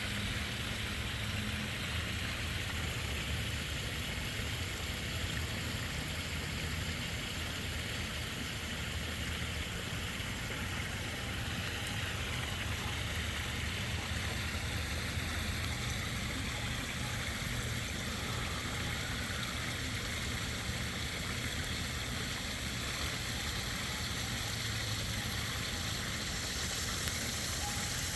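Steady rush of running water, as from a pond's waterfall or stream, with a low rumble beneath.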